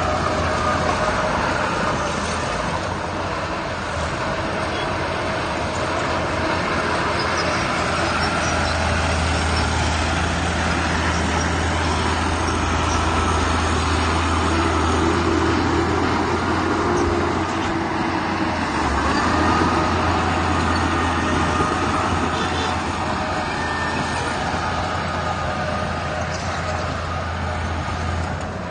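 Heavy diesel machinery running steadily, a continuous low engine rumble with noise over it, as from dump trucks and a bulldozer working a landfill tip.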